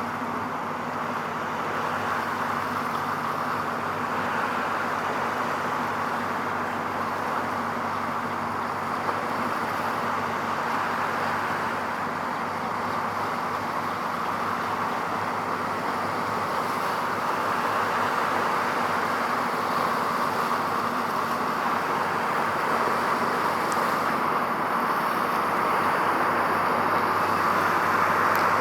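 Steady roar of distant road traffic with a faint low hum underneath, growing slightly louder toward the end.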